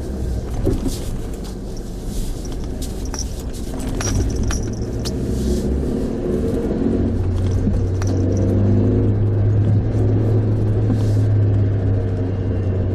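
Car engine running with a steady low hum and rumble, growing stronger about seven seconds in, with scattered light clicks.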